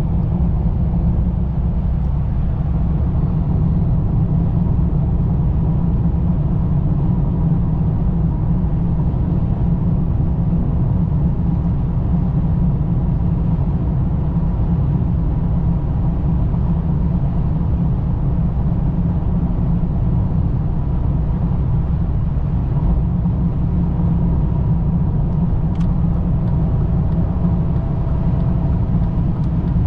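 Steady low rumble of a 2003 BMW 525i with its 2.5-litre inline-six running, holding an even level with no revving.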